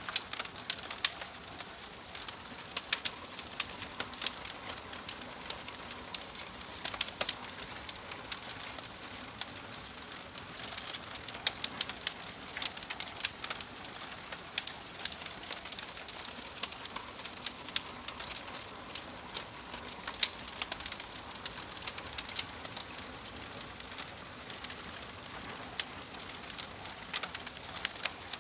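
Wood fire crackling: frequent sharp pops and snaps at irregular intervals over a steady soft hiss.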